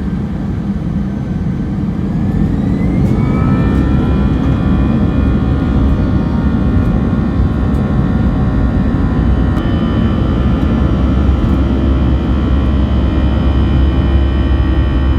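Airbus A320 jet engines heard from inside the cabin: a heavy steady rumble with a whine that rises in pitch a few seconds in, as the engines spool up, then holds steady at high power.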